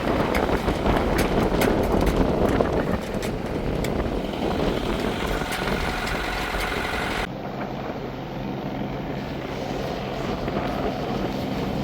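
Wind buffeting the microphone over the rush of a boat moving through choppy water; about seven seconds in the sound changes abruptly to a duller, steady low engine hum from the motoring boat.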